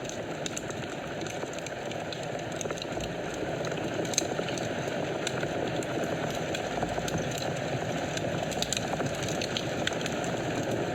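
Fire burning in a fireplace: a steady low rush of flames with scattered sharp crackles and pops, one louder pop about four seconds in.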